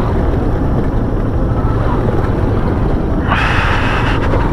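Steady rumble of a vehicle moving along a road, with wind and road noise on the microphone; a brighter hiss rises about three seconds in.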